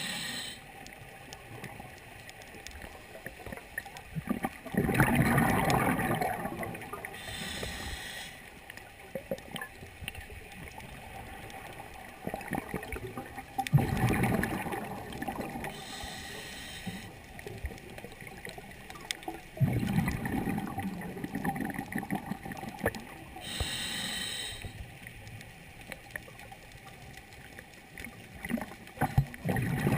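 Scuba diver breathing through a regulator underwater: a short high hiss on each inhalation and a longer bubbling rush of exhaled air, four breaths several seconds apart.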